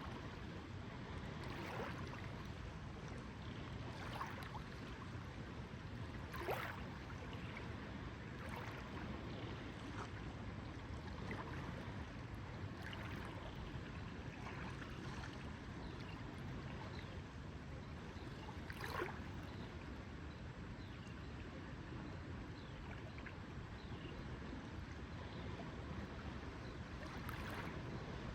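Lake water lapping in small, irregular splashes every couple of seconds over a steady low rumble.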